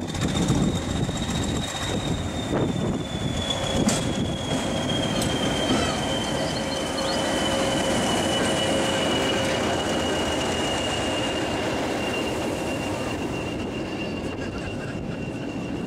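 A Class 20 diesel-hauled train moving along the platform, with rumbling running noise and a high whine that slowly slides down in pitch the whole time. A single sharp knock sounds about four seconds in.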